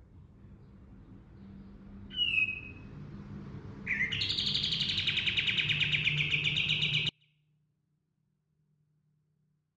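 Kapas tembak songbird singing: one short, sharp high whistled note, then a long rapid rolling trill that cuts off abruptly about seven seconds in. A faint low hum runs under the song until the cut.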